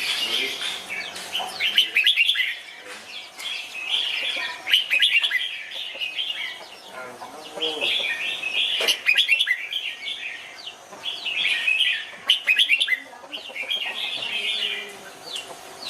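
Red-whiskered bulbul singing: a run of short, bright, warbling phrases, one every second or two, with brief pauses between them.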